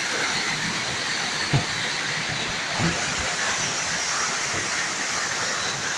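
A small waterfall's water rushing steadily, with two faint knocks about a second and a half and nearly three seconds in.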